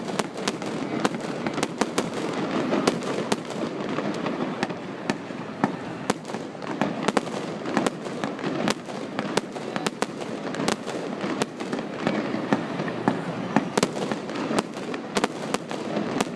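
Fireworks display going off: many sharp bangs and crackles in quick, irregular succession over a continuous din.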